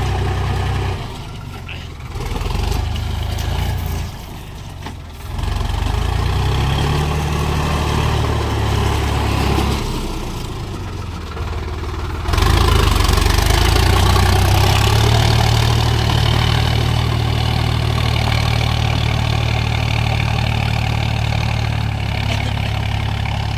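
Sonalika tractor's diesel engine revving up and down under load in mud, its pitch rising and falling. It eases off twice in the first few seconds, then runs louder and steadier from about halfway.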